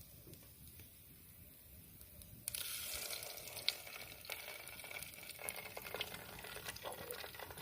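Food hitting hot oil in a pan: a sudden sizzle starts about two and a half seconds in and carries on, crackling.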